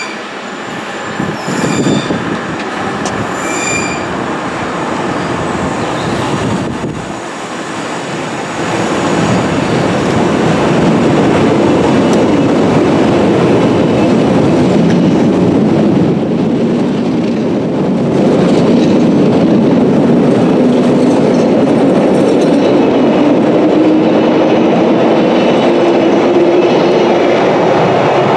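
London Underground 1962 Stock rail adhesion train running through a station, its wheels clattering over the rails, with short high-pitched wheel squeals in the first few seconds. The sound builds from about eight seconds in and stays loud, with a steadily rising whine in the last several seconds.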